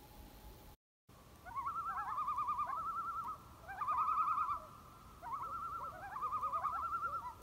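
A bird's wavering, quavering trilled call, repeated in three or four bursts.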